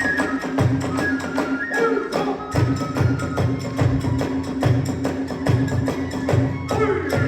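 Kagura hayashi accompaniment: a fast, steady pattern of drum beats and sharp clicking strikes, with a flute playing a melody that comes and goes.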